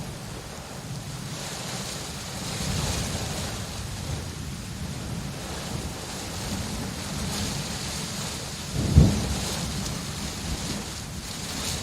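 Steady rain falling, with one brief loud low thump about nine seconds in.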